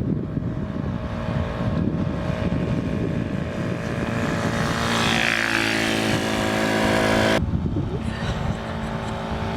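Pit bike engine running, then revving up with its pitch climbing for about three seconds; the sound changes abruptly about seven seconds in and the engine carries on at a steadier pitch.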